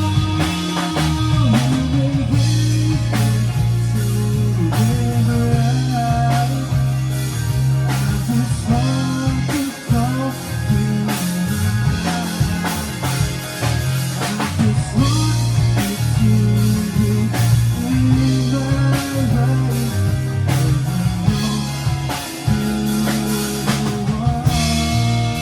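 Instrumental break of a rock song played by a band: electric guitar and bass over a drum kit, with melodic guitar lines bending in pitch.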